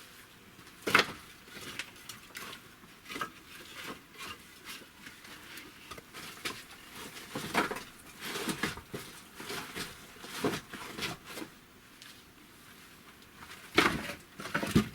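Scattered knocks and clicks at irregular intervals, the loudest about a second in and twice near the end.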